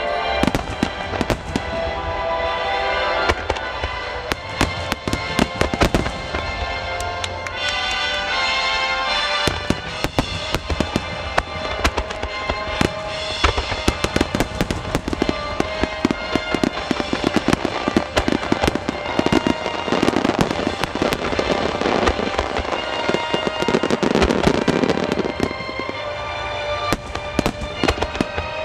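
A large aerial fireworks display, with shells bursting and crackling in a steady stream of sharp reports, and music playing along with the show. About twenty seconds in, a dense wash of crackling swells up for several seconds.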